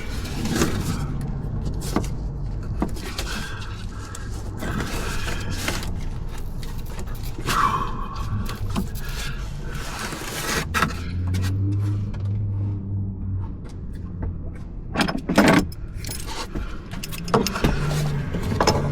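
Hand tools and metal parts clinking and rattling during work on a minivan's cooling system, over a low steady rumble, with a few sharp knocks a little after halfway.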